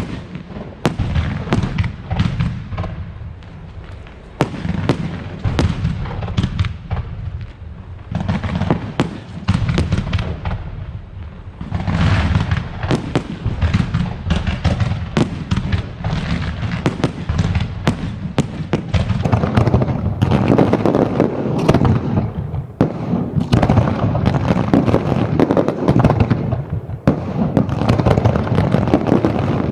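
Fireworks display: a continuous run of shell bursts and bangs with crackling between them, growing denser and louder in the second half.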